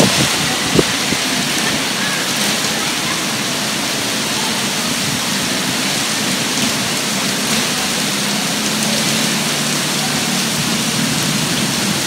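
Steady rain falling on a wet street, an even hiss. A brief low rumble dies away in the first second.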